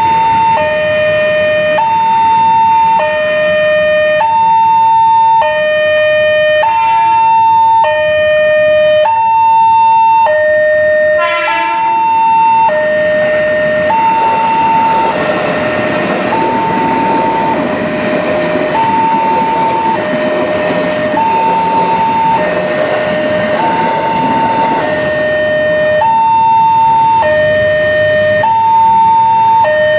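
Electronic two-tone alarm of a Wanteck railway level crossing, a high and a low tone alternating about every second and a quarter without pause. A rushing noise swells through the middle, typical of a train passing over the crossing, with a brief pitched sound about eleven seconds in.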